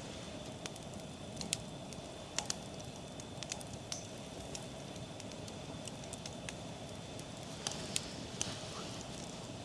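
Irregular sharp crackles and pops over a steady low hiss.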